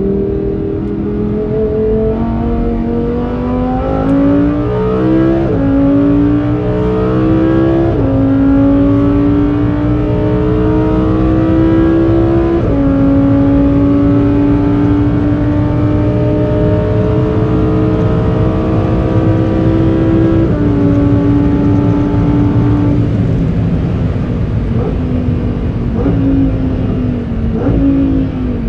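Lamborghini Huracán Performante's V10, on its stock exhaust, accelerating up through the gears: the engine pitch climbs and drops at each upshift, several times, the last about two-thirds of the way through. Then the pitch falls as the car slows, with a few short downshift blips near the end.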